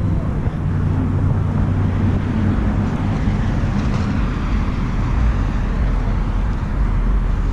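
Car engine idling steadily, a continuous low sound over a haze of background noise.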